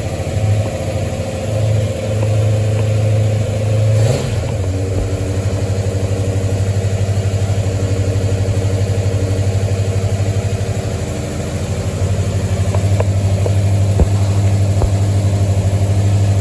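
1973 Ford Mustang's engine idling steadily after a no-start that has cleared; it is starting and running perfectly well. Its note shifts briefly about four seconds in.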